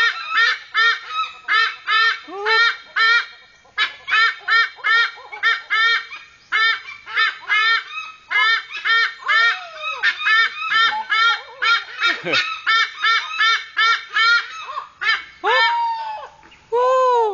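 Captive eagles calling: a rapid run of short, shrill, repeated calls, two or three a second, with a few longer, lower calls near the end.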